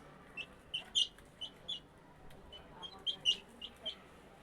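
22-day-old chicks peeping: a string of about a dozen short, high chirps at uneven spacing, loudest about a second in and again near the three-second mark.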